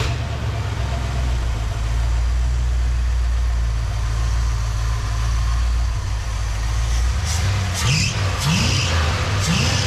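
Carbureted engine of a 1966 car idling steadily at a normal idle after carburetor adjustments. Near the end, the throttle is blipped by hand at the carburetor three times in quick succession, each a short rising rev.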